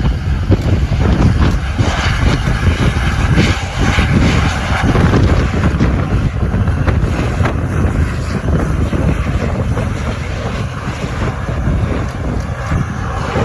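Strong gusting wind buffeting the microphone: a loud, uneven low rumble with a hiss above it.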